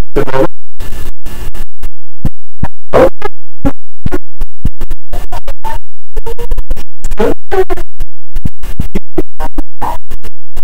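Video-call audio breaking up: loud, distorted fragments of garbled sound, perhaps a voice, stuttering on and off several times a second with dropouts between them.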